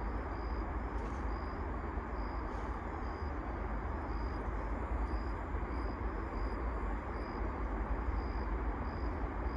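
Steady outdoor background noise: a low rumble and hiss, with a faint high chirp repeating about twice a second.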